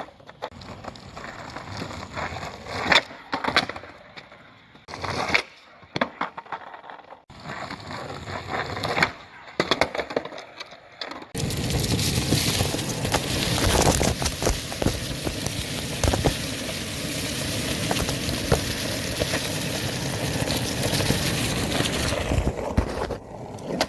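Skateboard wheels rolling with scattered clacks and knocks of the board. About halfway through there is an abrupt cut to a loud, steady rolling rumble that lasts almost to the end.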